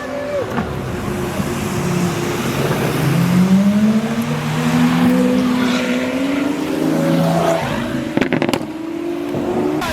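A car engine accelerating hard, its pitch climbing repeatedly as it pulls through the gears, over a steady hiss of road noise. A quick cluster of sharp cracks comes about eight seconds in.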